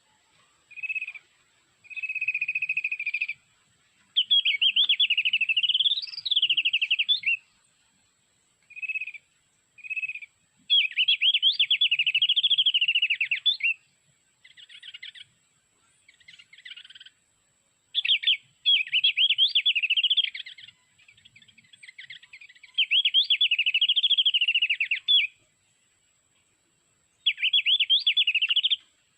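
White-eye (pleci) song played as a trapping lure from an MP3 player: loud bursts of rapid, high warbling a few seconds long, repeated with short single notes and brief gaps between them.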